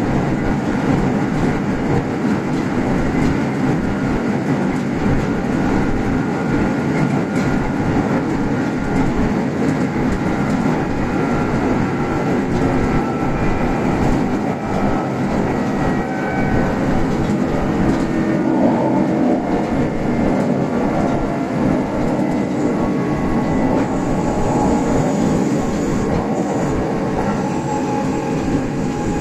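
Kintetsu express electric train running on the line, heard from inside the leading car: a steady rolling rumble of wheels on rail with a few faint clicks.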